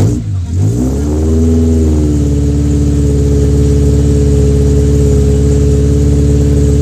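Honda Civic engine running after a no-start fault: a brief rev that rises and falls, then it settles into a steady idle.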